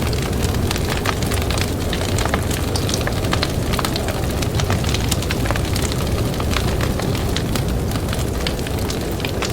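Campfire crackling, with many quick sharp pops scattered irregularly, over a steady low rumble of blizzard wind.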